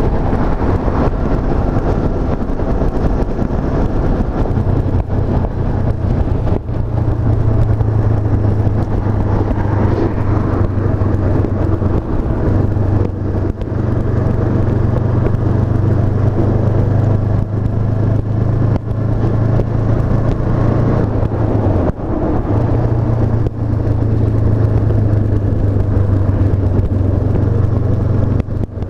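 Honda CB500F's 471 cc parallel-twin engine running steadily while the bike is ridden, its note dipping briefly a few times.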